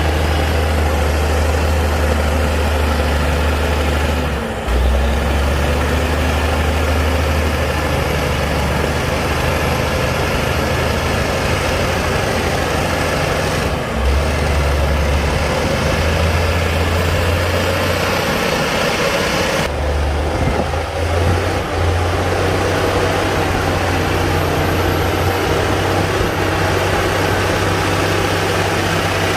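Komatsu D60-P bulldozer's heavy diesel engine running steadily and loud while working, with a few brief dips.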